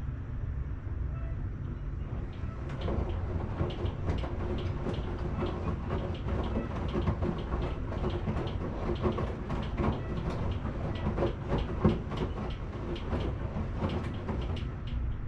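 Washing machine running with a steady low rumble; from about two and a half seconds in, a dense clatter of clicks and knocks rides over it.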